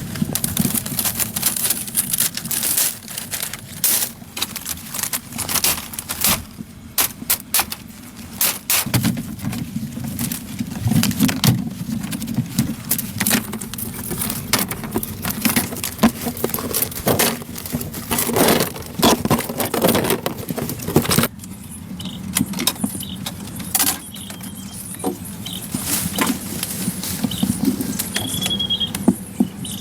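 Irregular clicks and knocks, like hand work with tools or materials, over a steady low hum; the sound changes abruptly about two-thirds of the way in, and a few short high chirps come near the end.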